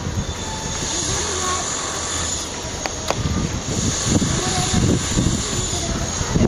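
Freight train running past with a steady roar, and wind buffeting the microphone; a single sharp click about three seconds in.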